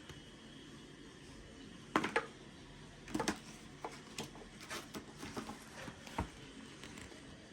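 A string of irregular sharp clicks and knocks over a faint steady hum, the loudest about two seconds in and again a second later.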